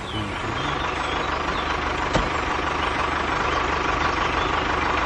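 Tractor engine running steadily, with one sharp click about two seconds in.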